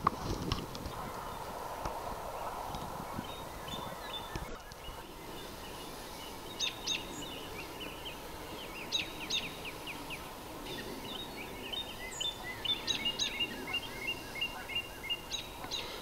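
Small birds chirping on and off in short quick notes, in loose clusters that grow busier toward the end, over steady outdoor background noise.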